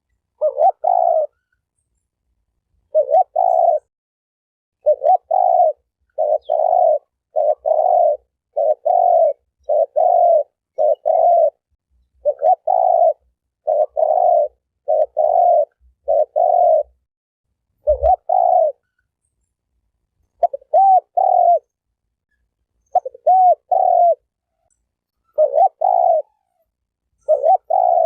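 Spotted dove cooing over and over, in quick clusters of two or three short coos at a low, steady pitch, separated by brief gaps and one longer pause near the middle.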